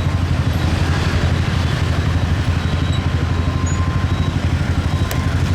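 Motorcycle riding in city traffic: its engine running steadily under a dense, fluttering low rumble.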